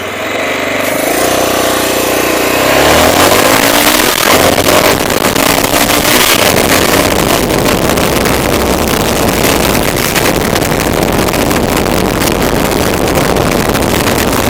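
Honda SLR 650 / FX 650 Vigor's 650 cc air-cooled single-cylinder engine pulling away, its pitch rising over the first few seconds, then running on steadily under a loud rushing noise of wind on the helmet-camera microphone.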